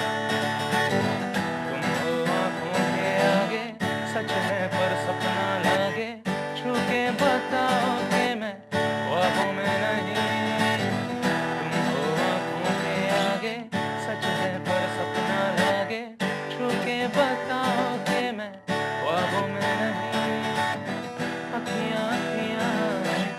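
A love song performed on strummed acoustic guitar with a voice singing the melody.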